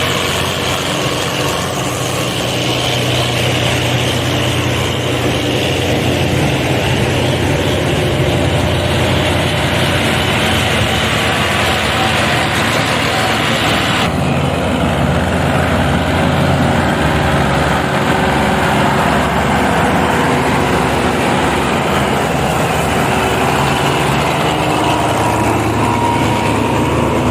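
Diesel tractor engines running hard under heavy load while pulling a loaded sugarcane trolley, a loud, steady drone. The sound changes abruptly about halfway through.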